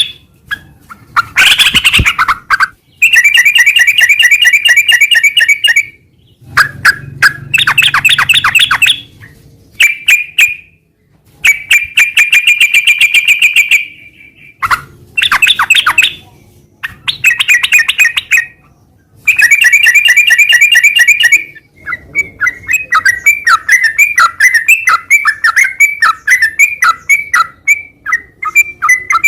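Sooty-headed bulbul (trucukan) singing in fast runs of rapid repeated notes, each run two to three seconds long with short breaks between. In the last seven seconds it changes to a steady string of quick chirps.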